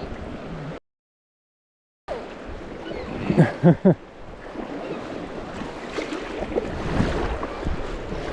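Wind buffeting the microphone over the wash of river water, broken by a sudden cut to dead silence about a second in. A couple of short pitched sounds stand out about three and a half seconds in.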